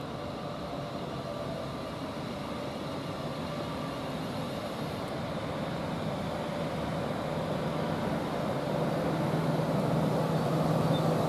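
A Siemens Class 350 Desiro electric multiple unit approaching along a station platform. Its steady hum and running noise grow steadily louder as it draws near, with the low hum strongest near the end.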